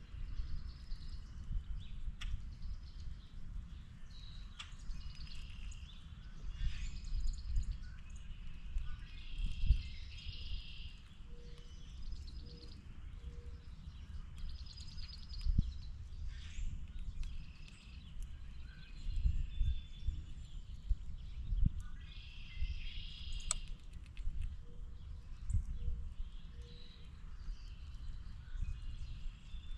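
Outdoor birdsong: several birds chirping and trilling in short repeated phrases, over a steady low rumble.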